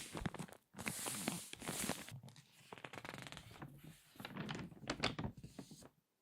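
Crinkly magazine pages being turned and squeezed by hand: an irregular run of paper crackles and rustles that dies away just before the end.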